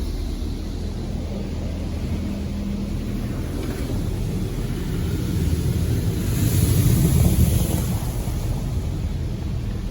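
PDQ LaserWash 360 touchless car wash running, a steady low hum of its pumps and motors under hissing water spray, swelling louder about six to eight seconds in as the spray passes close.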